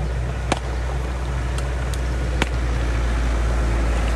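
Bulldozer's diesel engine running under load with a steady deep rumble, broken by two sharp knocks about two seconds apart.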